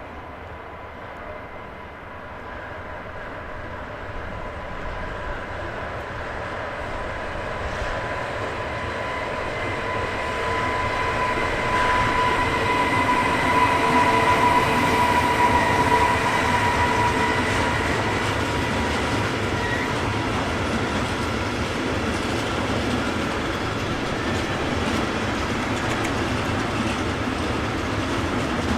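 A train approaching and passing on the line, growing steadily louder over the first half and then running on close by, with a steady whine over the rumble of wheels on the rails.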